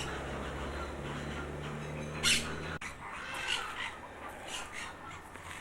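Birds calling in an aviary: one loud, short squawk about two seconds in, then several fainter short calls. A steady low hum underneath stops abruptly partway through.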